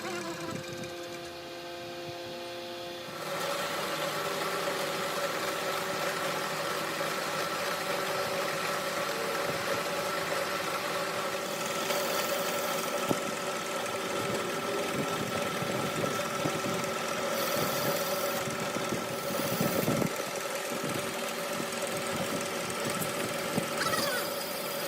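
A machine running steadily with a constant hum of several steady pitches that steps up about three seconds in, over a rattling, clattering noise.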